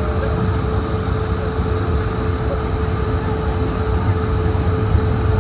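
Steady cabin noise inside an Airbus A220-100 on the ground: a low rumble with a steady hum running through it.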